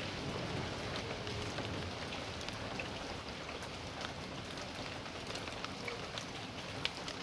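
Steady rain falling in a backyard, a constant hiss with scattered individual drops tapping and splashing on surfaces.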